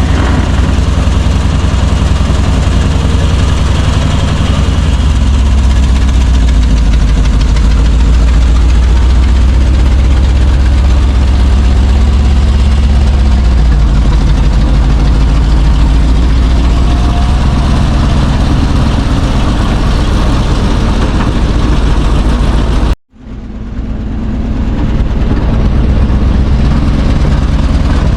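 Heavy truck engine of an old Chevrolet C60 wrecker running steadily with a deep low rumble that shifts in pitch a couple of times. About 23 seconds in the sound cuts out abruptly and fades back in over a couple of seconds.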